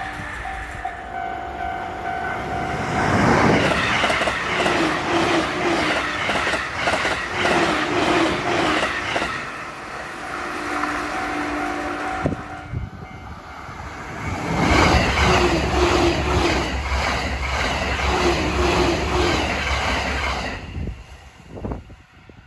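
Two JR East E531 series electric commuter trains passing at high speed, over 125 km/h, one after the other. Each pass is a few seconds of loud rushing wheel and running noise with a rapid rhythmic rail clatter, then fades away.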